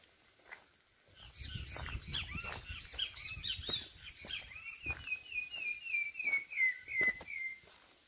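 A songbird singing one long phrase: a jumble of high, varied notes, then a run of about ten quick repeated notes that step gradually lower and stop near the end. Faint short clicks, like footsteps on rock, sound underneath.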